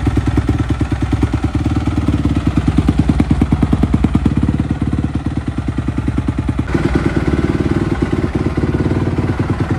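Single-cylinder four-stroke dirt bike engine of a 2014 Honda CRF250R running steadily with an even rapid pulse, its tone shifting slightly about seven seconds in.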